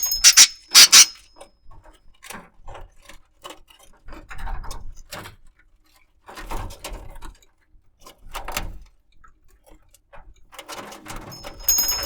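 Pet budgerigar moving about: scattered light clicks and rustles. There are short high chirps at the start and again near the end.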